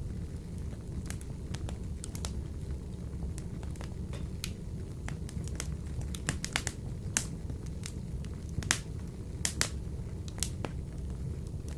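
Wood fire burning in a wood-burning stove: irregular sharp crackles and pops over a steady low rumble. One pop about three-quarters of the way through is louder than the rest.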